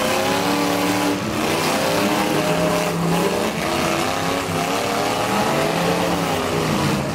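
Several antique demolition derby cars' engines revving together, their pitches rising and falling over one another.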